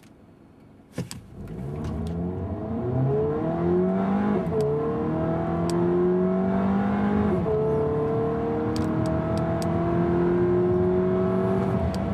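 2013 Dodge Dart GT's 2.4-litre Tigershark MultiAir inline-four accelerating hard through its six-speed automatic, heard from inside the cabin. After a sharp click about a second in, the engine note climbs, drops at an upshift about four and a half seconds in, climbs again, drops at a second upshift about seven and a half seconds in, then rises more slowly.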